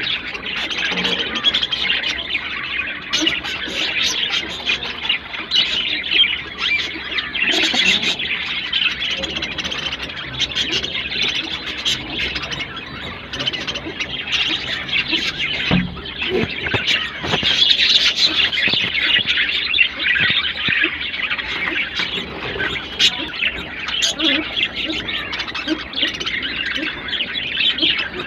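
Budgerigars chirping and chattering without pause, a dense run of quick high calls.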